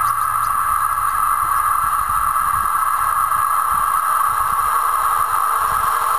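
Regional train approaching along the track, a low rumble building as it nears. Over it, a steady, loud high-pitched drone runs without a break.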